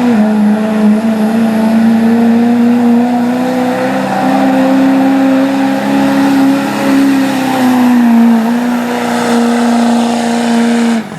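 Work stock diesel 4WD pickup truck engine running hard at high revs under load as it pulls the sled. The pitch holds steady with small wobbles, sags slightly about eight seconds in, and cuts off suddenly near the end.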